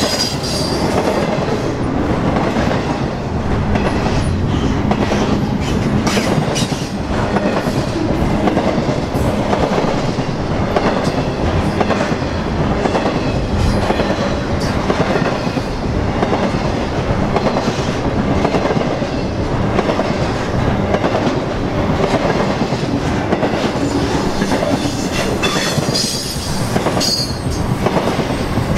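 Intermodal freight train rolling past at close range, its car wheels clacking over the rail joints in a steady run, with short high wheel squeals near the start and again near the end.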